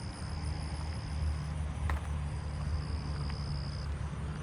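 Cricket trilling, a steady high-pitched trill in bouts of a second or two with short breaks between, over a low steady rumble.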